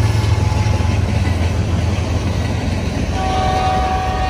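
Train passing with a loud, steady low rumble. About three seconds in, a locomotive horn starts sounding a steady chord.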